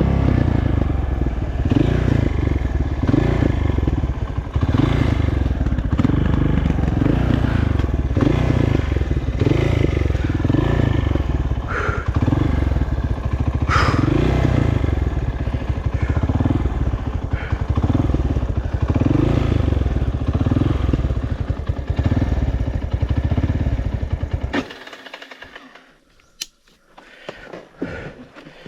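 Honda CRF230F's air-cooled single-cylinder four-stroke engine running under load on a dirt trail, with clatter from the bike. The engine stops abruptly near the end, leaving a few faint clicks.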